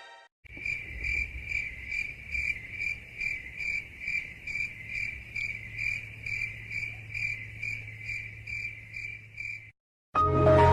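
Crickets chirping in an even pulse, about two to three chirps a second, with a faint low hum under it: the stock 'crickets' meme sound for an awkward silence. It cuts off suddenly near the end, and loud music comes in.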